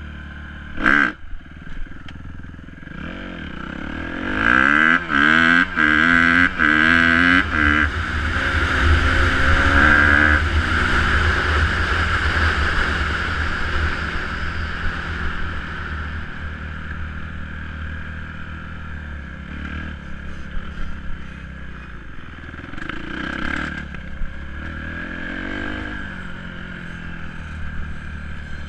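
Dirt bike engine revving up in several rising sweeps a few seconds in, then running loudest around ten seconds and more steadily after, with a short loud burst about a second in.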